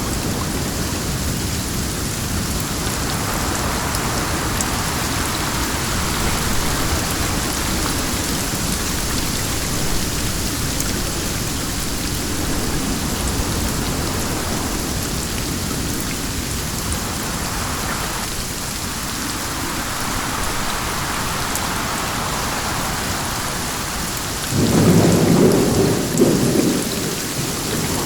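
Steady rain falling, with a low rumble of thunder; a louder thunderclap rolls in about 25 seconds in and lasts a couple of seconds.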